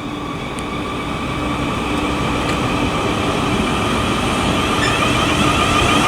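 Class 444 Siemens Desiro electric multiple unit pulling away, its traction motors whining and rising in pitch as it accelerates, getting steadily louder.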